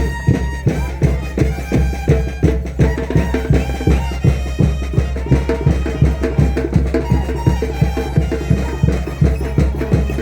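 Traditional Andean tinkuy music: a reedy wind melody of held notes over a steady, regular drumbeat.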